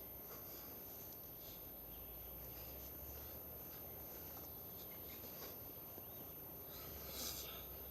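Quiet forest ambience with a few faint, brief bird chirps, the clearest about seven seconds in.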